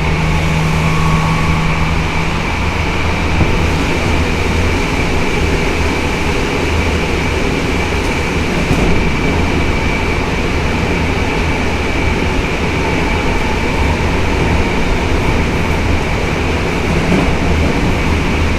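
Tokyo Metro 07 series electric train running at speed, heard from inside the car: a steady rumble of wheels on rail with a constant high tone over it.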